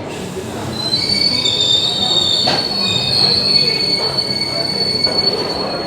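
Passenger train's wheels and brakes squealing in several high, steady tones as it slows in the station, over a low rumble. A single sharp knock comes about two and a half seconds in.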